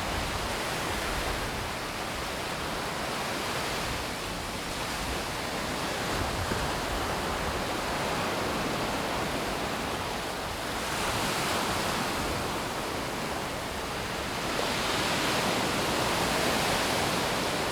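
Sea surf washing onto a beach, a steady rush that swells louder as waves come in, twice in the latter half.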